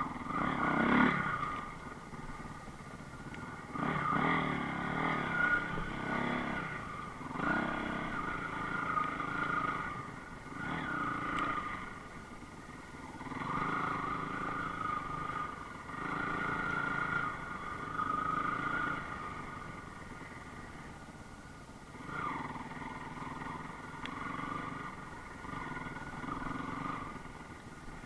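Enduro motorcycle engine revving up and easing off repeatedly, its pitch and loudness rising and falling every few seconds.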